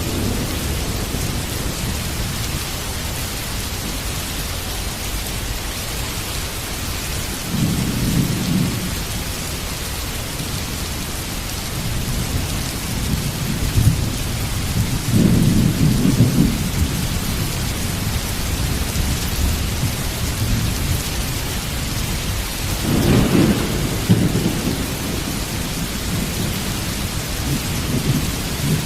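Steady heavy rain with rolling thunder: low rumbles swell up about eight seconds in, again more strongly around fifteen seconds, and once more near twenty-three seconds.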